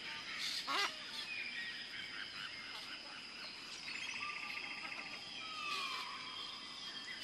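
Birds chirping and calling: scattered short chirps, a rapid trill about four seconds in and a falling whistle near six seconds, over a steady high-pitched hum.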